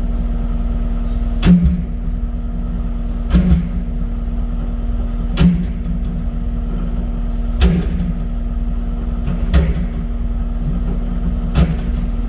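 Diesel engine of a construction machine running steadily, with a short knock or clunk about every two seconds.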